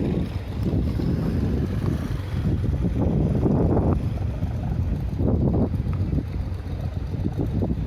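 Wind buffeting the microphone in a loud, uneven low rumble, with a vehicle running underneath.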